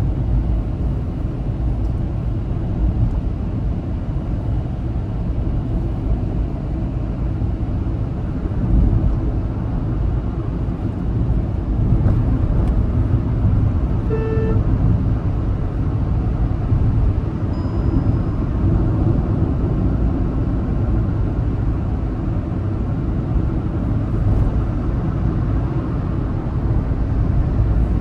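Steady road and engine noise of a car driving on a highway, with one short horn toot about fourteen seconds in.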